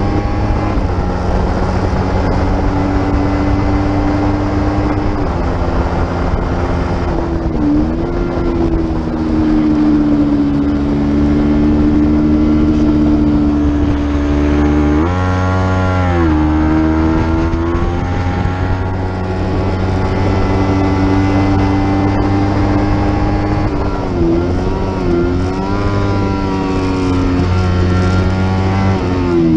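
Racing motorcycle engine held at high revs, its pitch dipping and climbing again about 8 s in, swinging sharply up and back down around 15 s, and wavering again near 25 s.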